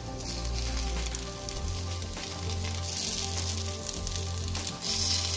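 Jowar-flour ponganalu (paniyaram) sizzling in hot oil in the wells of a paniyaram pan as they are turned over one by one with a wooden stick.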